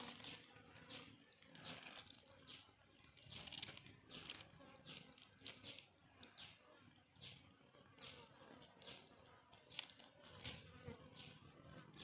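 A bird calling faintly in the background: short high chirps, each falling in pitch, repeated about twice a second.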